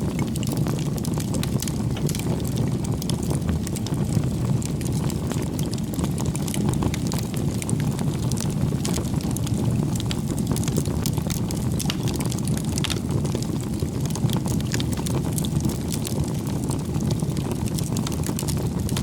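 Campfire burning: a steady low rumble of the flames with frequent small crackles and pops from the wood.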